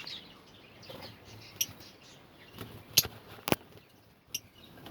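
Lovebirds chirping faintly in their colony, with four sharp clicks or taps; the loudest two come about three and three and a half seconds in.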